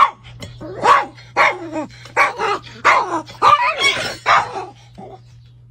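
Dog barking repeatedly, about eight short barks falling in pitch, stopping about four and a half seconds in.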